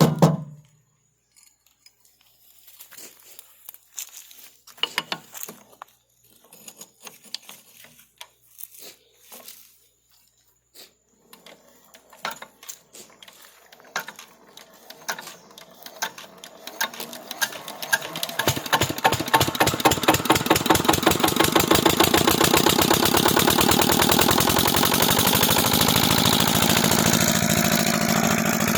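Fieldmarshal Model GF 5 HP single-cylinder diesel engine on a water pump being started: scattered irregular knocks and puffs at first, then it fires, picks up speed over several seconds and settles into a steady, fast, even running beat for the last third.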